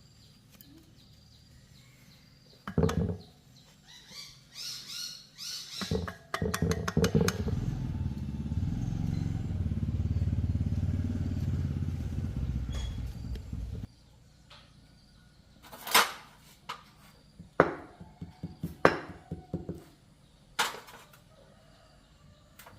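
A small motorcycle engine is started and runs steadily for about eight seconds, then is switched off abruptly. A few sharp knocks and clicks follow.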